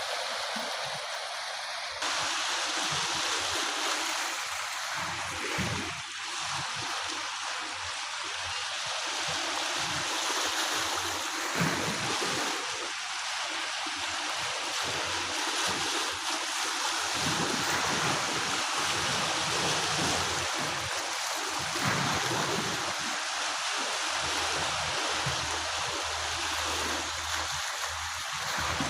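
Steady rush of moving water, an even hiss without a break.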